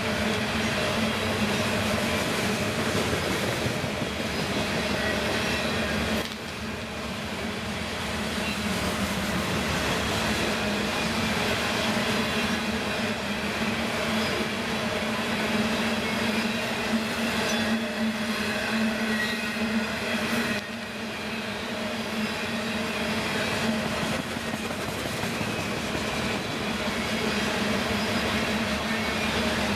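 Freight train rolling past: a steady rumble of wheels on rail with a constant low tone and faint high squeal, the level dropping suddenly about six seconds in and again about twenty seconds in.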